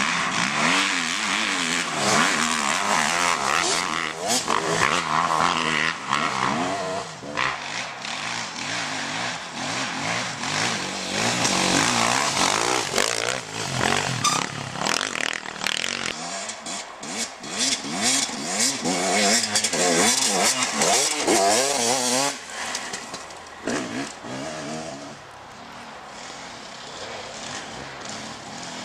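Dirt bikes racing, their engines repeatedly revving up and falling back as riders work the throttle through the gears, several bikes at once. The engine sound fades somewhat near the end.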